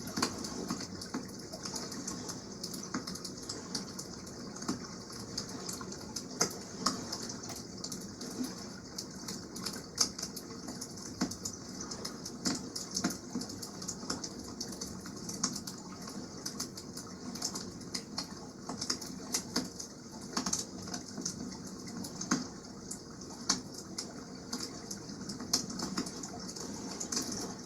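Wood campfire crackling, with irregular sharp snaps and pops several times a second over a steady wash of water in the background.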